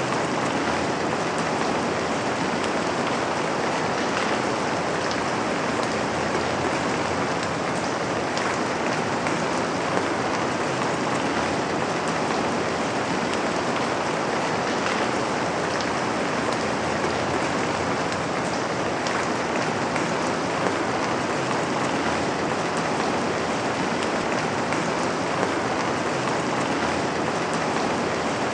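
Steady rain falling on a window: an even hiss with a few louder drop ticks now and then.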